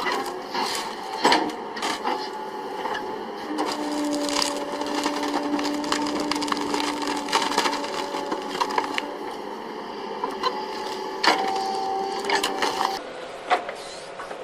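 Wood cracking and splintering again and again over the steady hum of a working machine, as heavy tree-felling equipment breaks up timber. It gets quieter near the end.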